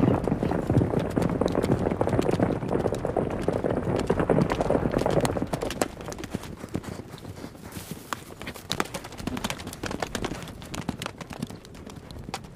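Hoofbeats of a herd of galloping horses, a dense drumming of many hooves. About five and a half seconds in it drops in level, leaving fewer, sharper hoof strikes.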